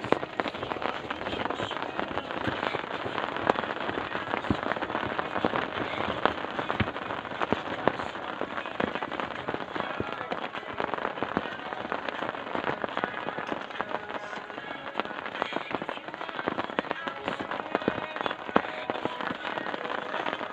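Heavy rain falling steadily, a dense crackle of drops striking close to the microphone.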